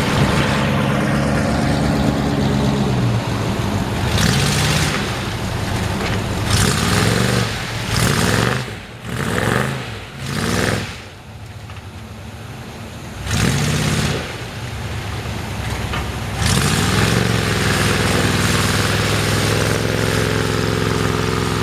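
Mud truck engine running and revving in repeated bursts, its pitch climbing and dropping several times, with a longer rev that rises and falls near the end.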